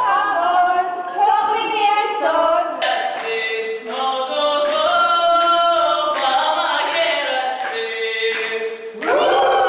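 Several voices singing a melody together, unaccompanied at first. About three seconds in, a sharp steady beat of roughly two strokes a second joins them.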